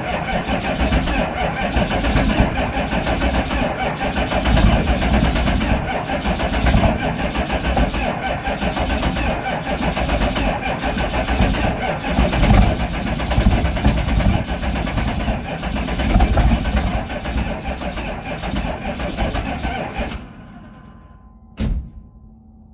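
1998 GMC 3500's 6.5-litre V8 turbo-diesel running cold at about −35 °C, loud and uneven. It dies away about 20 seconds in, followed a moment later by a single sharp knock.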